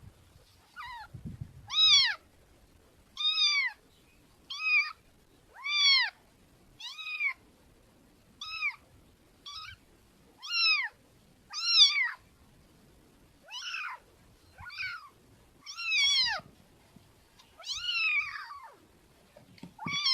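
Domestic cat meowing over and over: about fifteen short meows, each rising then falling in pitch, roughly one a second with brief quiet gaps between them.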